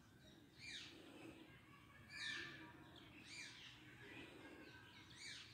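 A bird calling faintly: four short, high calls, each falling in pitch, spaced about a second or more apart.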